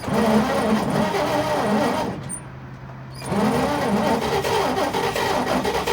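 Starter cranking the 1941 Chevy pickup's inline-six engine in two bursts with a pause of about a second between them, the whir rising and falling in pitch; this is the first start attempt after the engine sat for 40 years.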